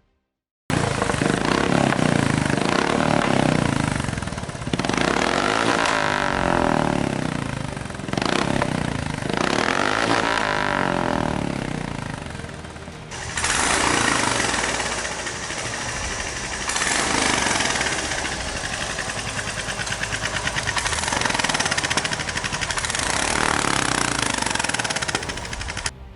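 Royal Enfield Classic 350 single-cylinder motorcycle engine through a Rumbler Max aftermarket exhaust, starting up loud after a brief silence. It is revved several times in the first half, the note rising and falling, then runs more steadily through the second half.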